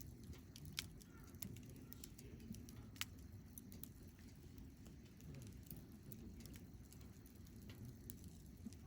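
Wood campfire burning quietly: scattered sharp crackles and pops over a low steady rumble, the loudest pops about one second and three seconds in.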